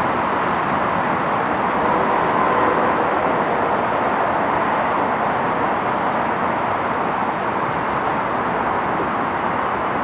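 Passenger train running through the station, a steady loud rumble of wheels and motors on the rails.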